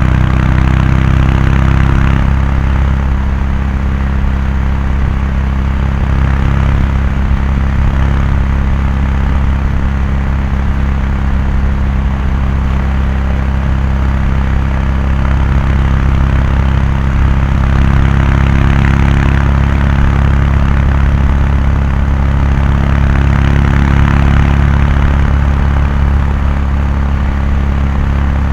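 Kawasaki Meguro K3's air-cooled 773 cc parallel-twin exhaust at a steady highway cruise, holding an even pitch, with a rushing noise that swells and eases above it.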